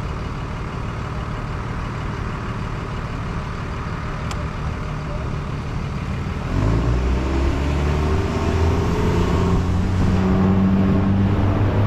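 Motor vehicle traffic: a steady road rumble, then about six and a half seconds in a vehicle gets louder and pulls away, its pitch slowly rising.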